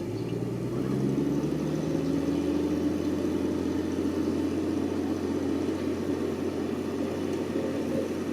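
Heavy machinery's diesel engine running steadily, its pitch rising a little over the first couple of seconds and then holding.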